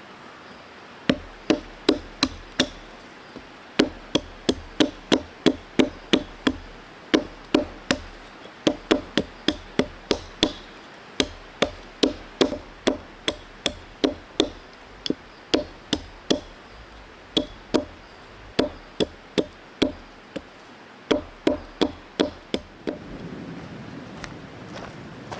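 A hand tool striking hard repeatedly, about two to three blows a second, in several runs broken by short pauses; each blow gives a short ringing knock.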